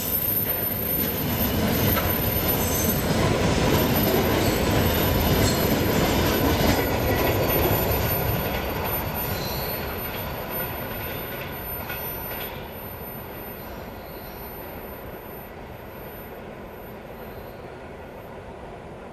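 Train cars hauled by a VL10U electric locomotive rolling past on the rails, with a dense rumble and light knocks from the wheels. The noise is loudest for the first several seconds, then dies away steadily after about eight seconds as the end of the train moves off.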